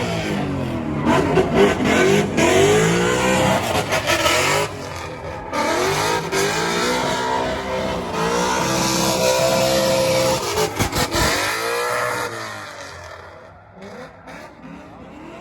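Drift car engine revving up and down over and over while its tyres squeal and hiss, fading away near the end as the car moves off.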